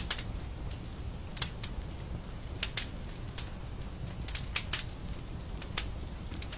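Wood fire crackling in a fireplace: sharp, irregular pops and snaps over a low, steady rumble.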